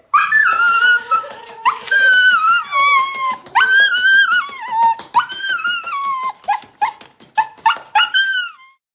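A dog whining and whimpering in a series of high-pitched cries, each sliding down in pitch; the first few are drawn out, then they come shorter and quicker near the end.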